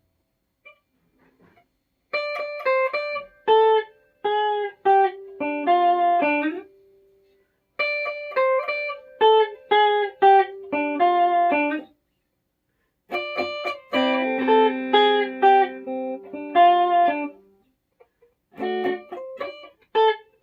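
Flight Centurion solid-body electric tenor ukulele picked in a rock-style riff of single notes and short runs, played in repeated phrases of about four to five seconds with brief pauses between.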